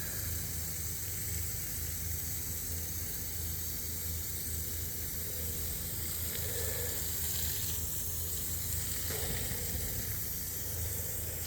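Garden hose spray nozzle spraying a steady hissing stream of water onto brickwork, washing off freshly placed concrete.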